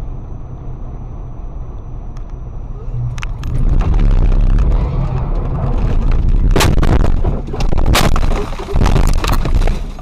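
Steady low vehicle rumble, then about three seconds in a loud rush of crashing noise with several sharp bangs in the last few seconds: a vehicle collision.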